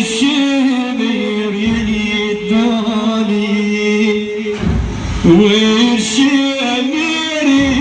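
A man's solo voice chanting a Shia lament in the style of a radood. He holds long, wavering melismatic notes that bend up and down, with a short break about four and a half seconds in before the next phrase.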